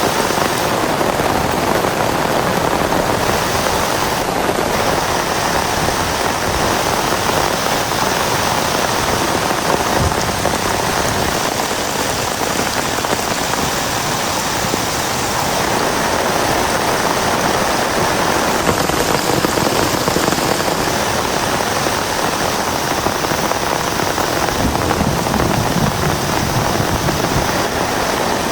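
Heavy rain pouring steadily, a dense, even patter that does not let up.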